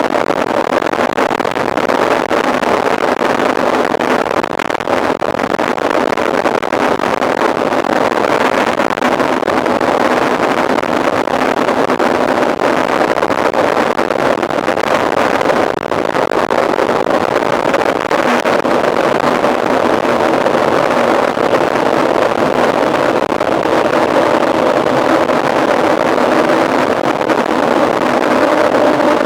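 Steady rushing noise of a mountain bike being ridden at speed: wind over the microphone mixed with tyre noise, with a faint steady hum underneath.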